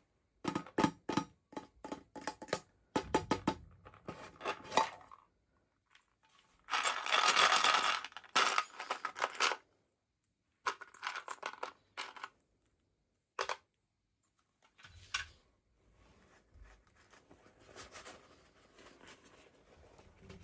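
Hands opening toy packaging: a quick run of sharp plastic clicks and taps, a loud tearing or crinkling sound lasting about a second and a half around seven seconds in, then scattered clicks and faint rustling.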